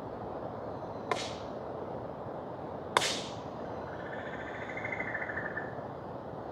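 Two sharp pops from burning wood in a bonfire, about two seconds apart, the second louder, over the steady rush of a mountain river.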